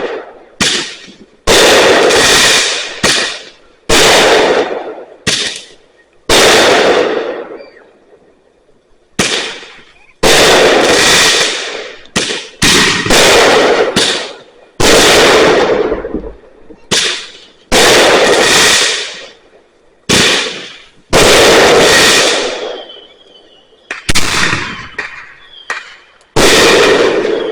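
Fireworks exploding in quick succession: about twenty sharp booms, roughly one every second, each dying away over about a second, with a brief lull about eight seconds in.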